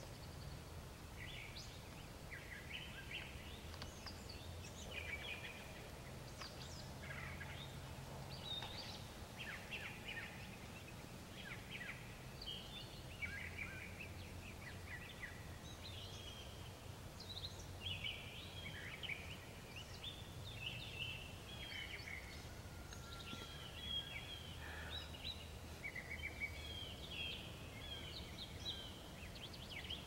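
Several songbirds chirping and calling, many short overlapping calls at irregular intervals throughout, over a faint steady low rumble.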